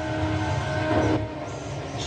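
A steady, fluttering low rumble of a moving vehicle, with a few sustained tones held over it.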